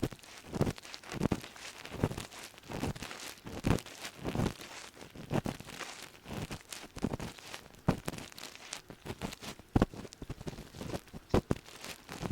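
Ear-cleaning ASMR: an ear pick scraping and rustling in a microphone's ear canal. It makes close, crackly scratching strokes, a few a second, at an uneven pace.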